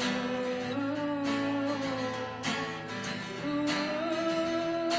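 A woman singing a long, wordless 'ooh' melody in held notes over a strummed acoustic guitar.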